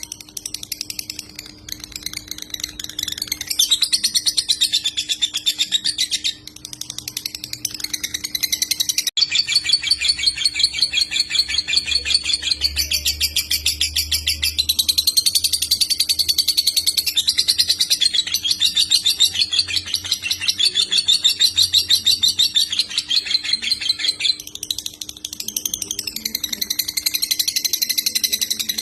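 Lovebird singing in the long, unbroken 'konslet' chatter: a very fast, continuous trill of high notes that runs on with a few short breaks. A faint steady hum lies underneath.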